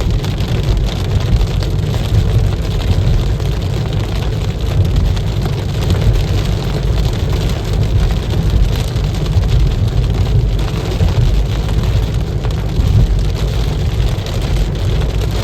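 Steady low road rumble inside a moving car, with rain hitting the car.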